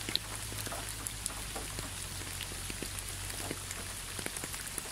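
Steady rain, with many individual drops ticking sharply and irregularly over an even hiss.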